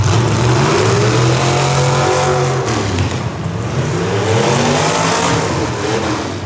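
Demolition derby car engine revving, its pitch climbing and falling twice as the car accelerates and backs off.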